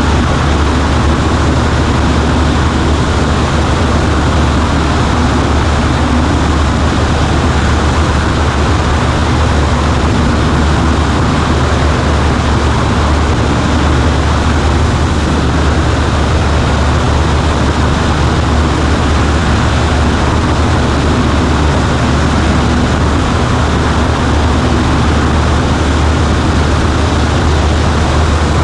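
Cessna 140A light aircraft's piston engine and propeller droning steadily in flight, with an even rush of air and no change in power.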